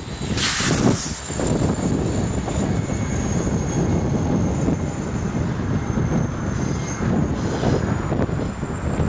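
Alaska Railroad passenger train rolling past, with a steady rumble of wheels on the rails and a thin high whine over it. A brief hiss about half a second in.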